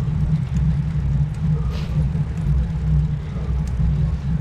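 Wind rushing over the microphone of a camera riding on a moving road bike: a steady, deep rumble.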